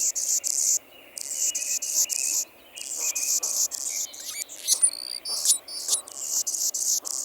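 Hummingbird calls: high, dry, buzzy chittering trills in repeated bursts of about half a second to a second each, with a run of sharp chip notes in the middle.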